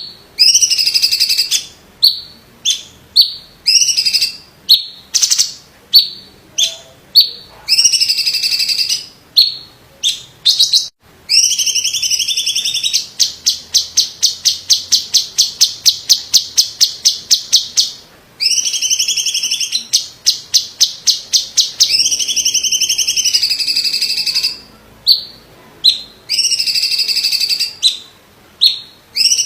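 Cucak cungkok, a variety of cucak ijo (green leafbird), singing loudly in a varied song of short, sharp whistled notes and longer held phrases. About 13 seconds in, it breaks into a rapid rattling trill that lasts about five seconds.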